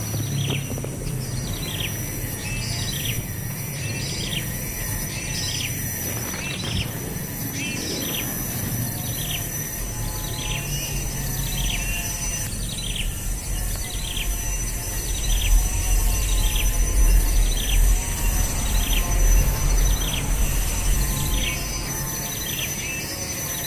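A bird calling over and over, a short falling chirp about three times every two seconds, over a steady high insect drone. A low rumble swells in the middle and fades near the end.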